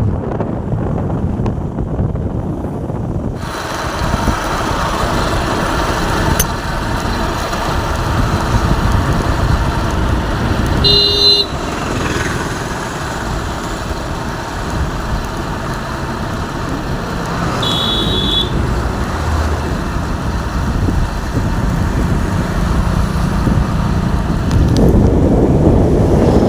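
Steady rush of road traffic and wind noise. About the middle comes a short horn toot, and a little later another brief high tone.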